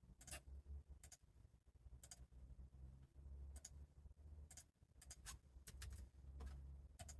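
Faint, irregular clicks and taps from someone working at a desk, about a dozen, some in quick pairs, over a low steady hum.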